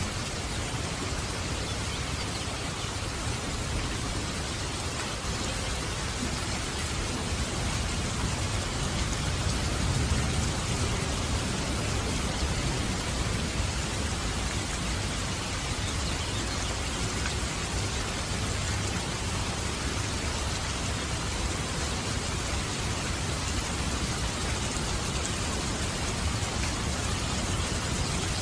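Steady heavy rain with a low rumble of thunder underneath, the rumble swelling a little about ten seconds in.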